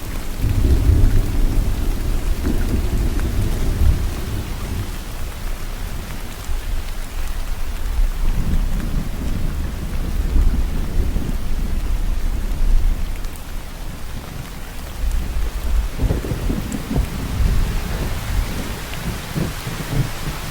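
Steady heavy rain falling, with low rolling thunder that swells and fades three times.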